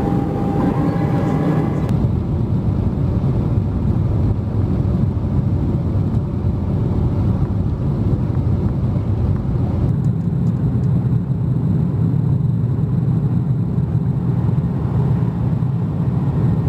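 Airliner cabin noise from a window seat: the steady low noise of jet engines and airflow. It changes abruptly about two seconds in and again about ten seconds in, as one flight's recording cuts to the next.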